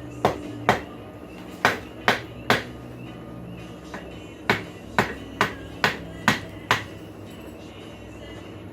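Hand hammer striking the steel of a rasp being forged into a snake, straightening it on the anvil. Three blows come near the start, then after a pause a quicker run of six, about two a second.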